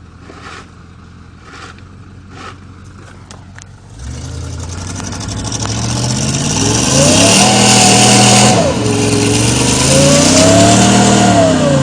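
Mercedes-Benz G500 V8 engine revving hard under load while pulling a truck. It comes in loud about four seconds in, climbs and holds, drops briefly about halfway, then climbs again and eases off near the end. Before it, faint scraping clicks about once a second.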